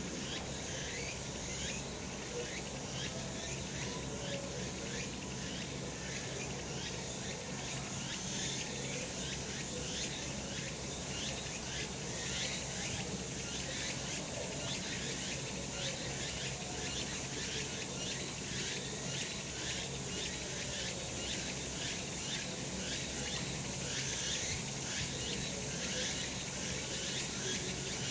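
Cicadas singing in a dense, steady chorus, with many short overlapping calls.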